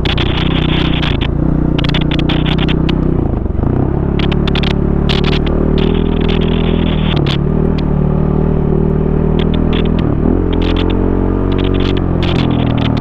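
Big single-cylinder four-stroke enduro dirt bike running under way, its engine note rising and falling with the throttle and dipping briefly about three and a half seconds in and again around ten seconds. Clatter and scrape of the tyres and chassis over rough ground run under it.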